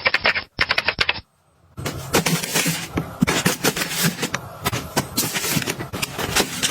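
Rapid clicking for about a second and a half, then, after a brief gap, a dense run of clicks, knocks and rustling as objects and packaging are handled and set down.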